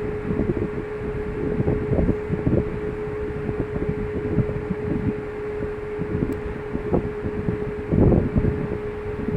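Wind gusting on the microphone over a steady, even-pitched hum from the cruise ship's machinery.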